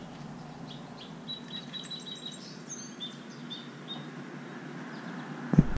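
Birds chirping: a string of short, high chirps over a steady low background hum, with a single thump near the end.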